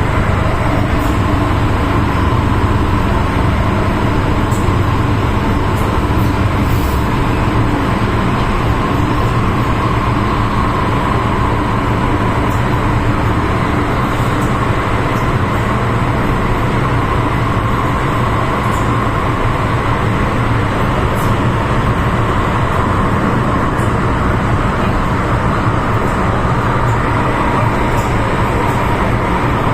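MTR M-Train electric multiple unit running at speed: a steady, loud rumble of wheels on track with a constant whine running through it.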